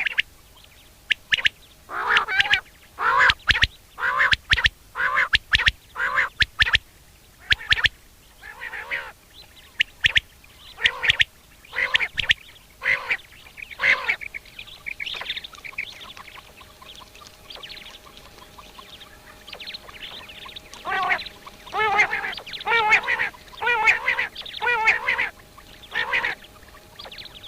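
Common quail calling over and over: short calls with stacked overtones, coming in quick groups with gaps between them, and a denser run of wavering calls near the end.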